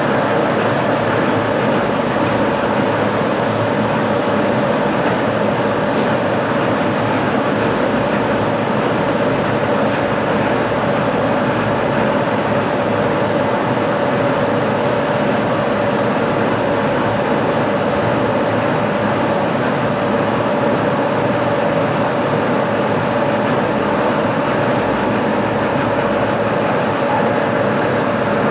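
Metalworking machine tool running steadily under continuous machining: an even, loud noise with a steady mid-pitched hum through it that does not change.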